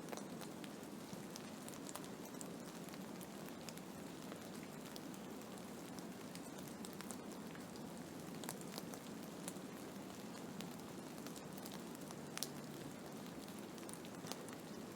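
Blizzard ambience: a steady low rushing of wind with irregular light ticks scattered through it, as of driven snow or ice pellets striking a surface.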